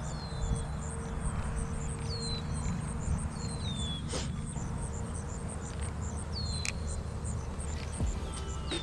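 Outdoor creekside ambience: a very high, evenly pulsed insect-like chirping, with short high notes falling in pitch every second or so, over a low rumble.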